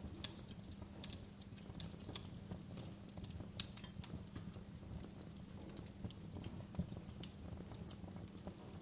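Wood fire crackling in a fireplace: irregular sharp pops and snaps, a few louder than the rest, over a steady low background.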